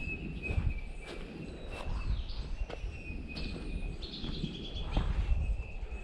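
Mountain ambience: short bird chirps over a steady high-pitched trill, with a low rumble of wind on the microphone and a few light clicks.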